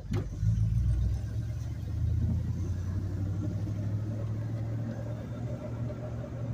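A car's engine and road noise heard from inside the cabin while driving slowly: a steady low hum that picks up about half a second in and holds. A short click sounds right at the start.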